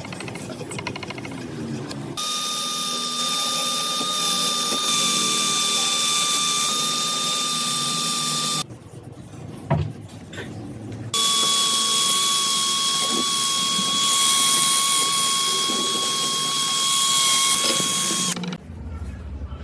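A handheld power tool runs twice for several seconds each, with a steady high whine and hiss and a short pause between runs.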